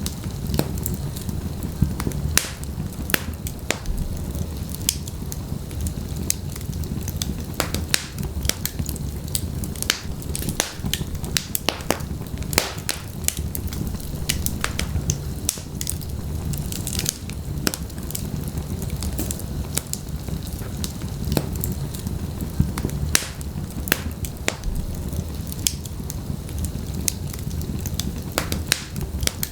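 Wood fire burning in a fireplace, with frequent sharp, irregular crackles and pops over a steady low rumble of the flames.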